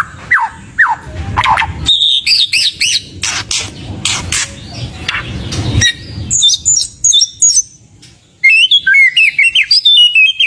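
White-rumped shama singing a fast, varied song of whistles, rising and falling glides and sharp clicks, full of phrases copied from other birds. Near the end there is a brief pause, followed by a loud run of high, rapid phrases.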